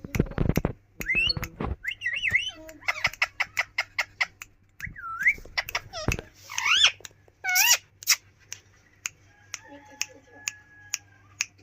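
Indian ringneck parakeet whistling and squawking in short, rising and falling whistled notes with sharp clicks between them, and a run of regular ticks, about two or three a second, in the last few seconds. A brief low thump comes right at the start.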